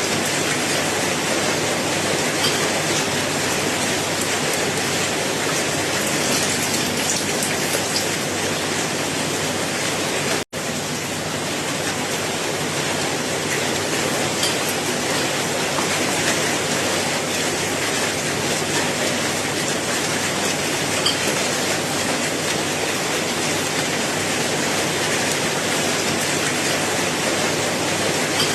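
Steady rain falling, a dense even hiss of drops with a few slightly louder drips standing out. A split-second gap of silence breaks it about ten seconds in.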